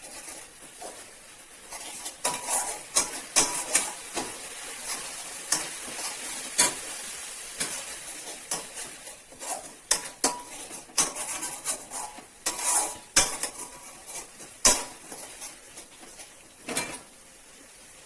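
A spatula stirring and scraping onion, garlic and ginger paste as it fries in a hot kadai: irregular scrapes and clinks against the pan over a steady sizzle.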